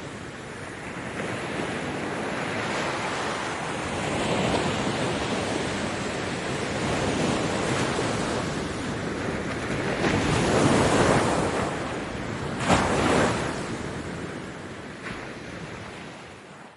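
Ocean waves breaking on a beach, the surf swelling and ebbing in slow surges. A sharp wave splash comes about thirteen seconds in, then the sound dies away near the end.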